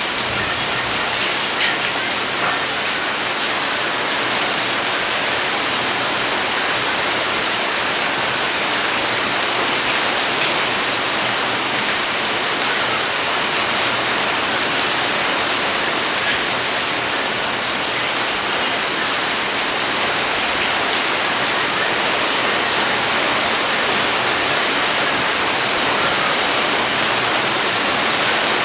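Heavy rain falling steadily: a dense, even hiss with the odd louder drop tick.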